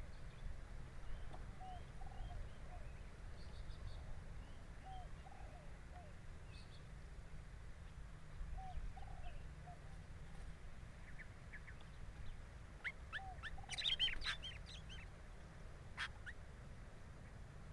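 Birds calling over a steady low rumble: faint, short arched call notes repeat every second or two, then a louder burst of quick, sharp high chirps comes about two-thirds of the way through. A single sharp click follows shortly after.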